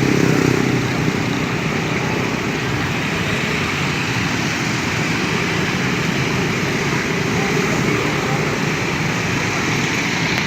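Small motorcycle engine running steadily under way, with road traffic noise around it.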